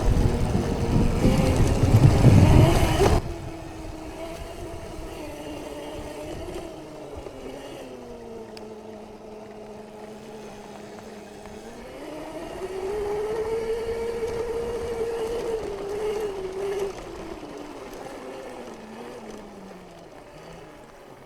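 Electric dirt bike's motor whining, its pitch rising and falling with the throttle. For the first three seconds or so there is heavy wind rumble on the microphone.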